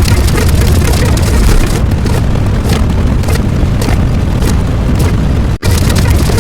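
Loud, continuous rumbling noise, heaviest in the bass, that cuts out for a split second near the end and then resumes.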